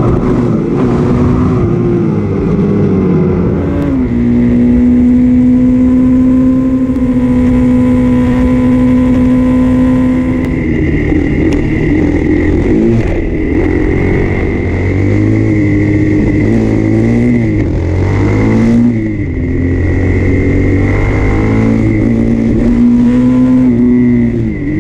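Dirt bike engine running, its revs rising and falling several times and held steady for a few seconds in between.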